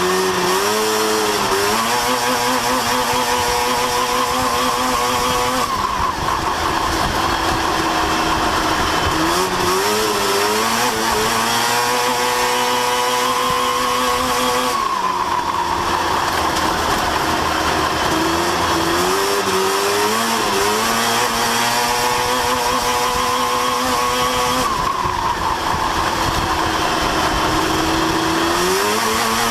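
Race truck engine at practice speed, pulling up to high revs and holding them, then backing off sharply and climbing again, in a cycle that repeats about every ten seconds, like laps of a short oval.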